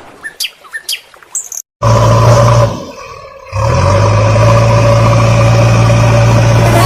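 A heavy vehicle's engine running loudly and steadily, cutting in about two seconds in after a quiet start, dropping away briefly around the three-second mark, then running steadily again.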